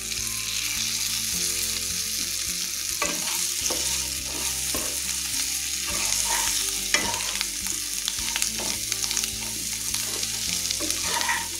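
Elephant foot yam cubes sizzling in oil in a nonstick kadai, stirred with a spatula. The steady frying hiss is broken by frequent short scrapes and knocks of the spatula against the pan from about three seconds in.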